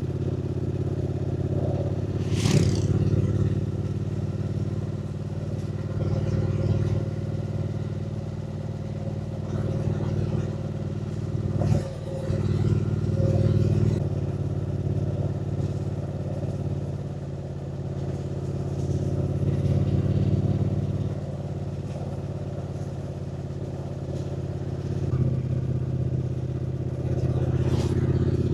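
Triumph Speed Twin 900's 900 cc parallel-twin engine running steadily under way, its note dropping back about halfway through and picking up again near the end. A few short rushes of noise come over it.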